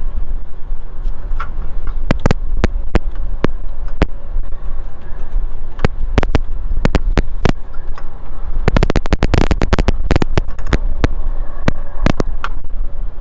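Hand tools clicking and knocking on metal while unbolting the pulley plates from a Thermo King Tripac APU water pump: scattered single clicks, then a quick run of rapid clicks about nine seconds in. A steady low rumble underneath.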